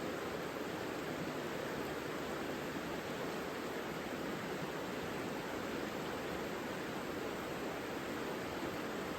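Savica river flowing, a steady, even rush of water that holds the same level throughout.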